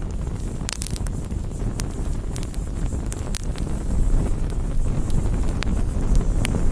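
Campfire crackling: sharp wood pops and snaps scattered irregularly, a few close together a little under a second in, over a steady low rumble.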